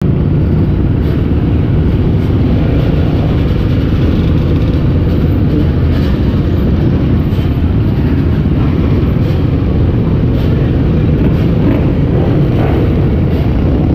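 Dirt bike and ATV engines running together, a loud steady rumble.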